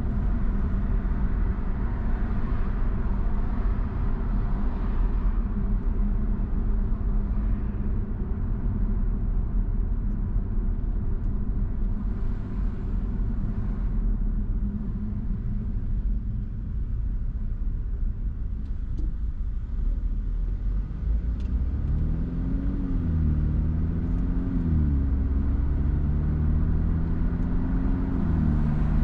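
Car driving: a steady low rumble of engine and road noise. From about two-thirds of the way in, the engine note rises and falls a few times.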